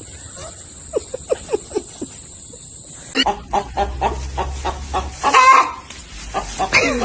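A chicken clucking: a run of short, falling clucks, irregularly spaced. About three seconds in the sound cuts to a louder scene with quick short sounds and one louder call.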